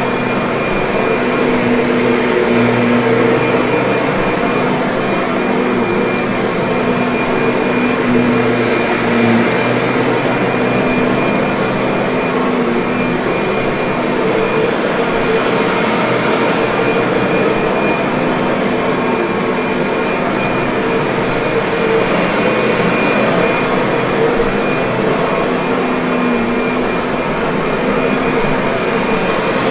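Kirby vacuum cleaner running steadily: an even rush of air with a few constant motor tones held through it, unchanging throughout.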